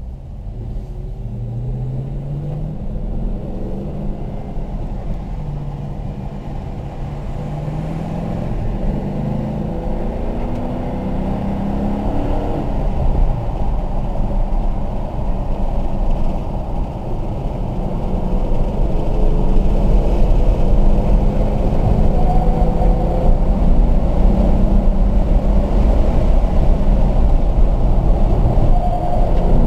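Car engine heard from inside the cabin, accelerating away from low revs, its note climbing in pitch in repeated steps and getting louder as the car gathers speed.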